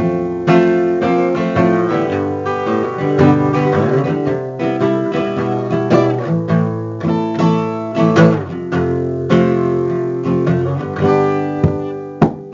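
Music: an instrumental passage of a song led by acoustic guitar, with chords strummed and plucked.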